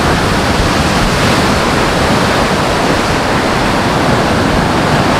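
Sea surf breaking on the shore: a loud, steady rush of noise, with wind blowing on the microphone.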